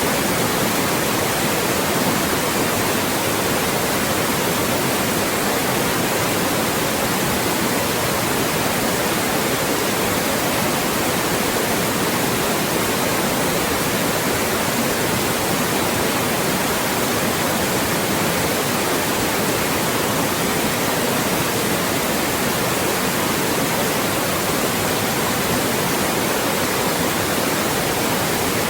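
Loud, steady white noise: an even, unchanging hiss across all pitches, made for masking speech.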